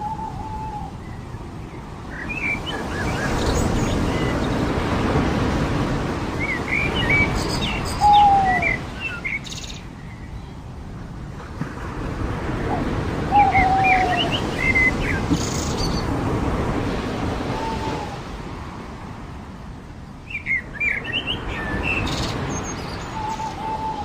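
Ocean surf breaking and washing up a beach in slow swells, three times, with birds chirping and giving short whistled calls over it.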